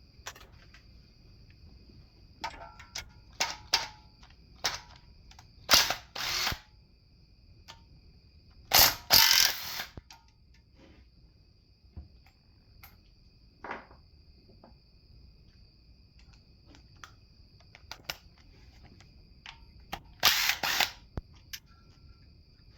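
Tools working on a 5.3-litre V8 engine being torn down: scattered metal clicks and clanks and several short, loud rasping bursts, the longest lasting about a second. A faint steady high tone runs underneath.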